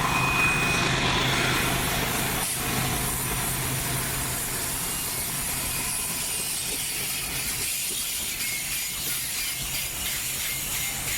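Train running: a steady rumble and rail noise, with a brief high tone near the start.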